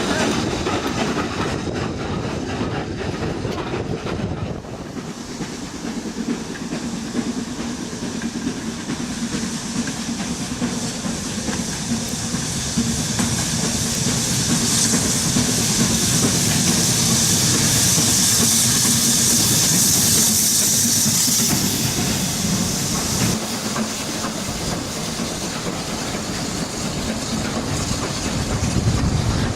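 Steam train running on the line, its wheels clattering over the rail joints. A loud hiss of steam builds through the middle and cuts off about two thirds of the way in.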